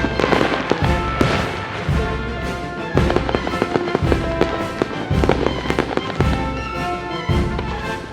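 Fireworks bursting and crackling over music with a steady deep beat about once a second.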